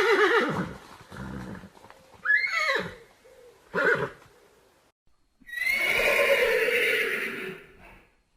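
A horse whinnying several times: a wavering whinny trailing off at the start, a few shorter calls in the first four seconds, then one long whinny from about five and a half seconds in until near the end.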